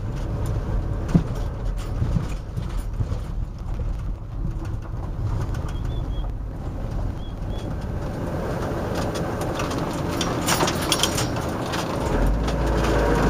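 A van's engine and tyres running steadily as it drives slowly, with a dove cooing and a few short high bird chirps about halfway through. Crackly tyre noise grows louder near the end.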